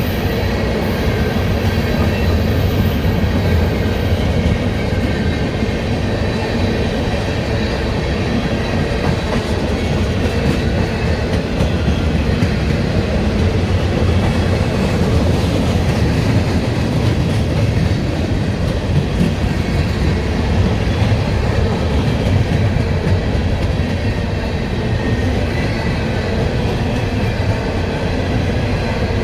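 A long CSX freight train's cars rolling steadily past on the rails, wheels clattering over the track.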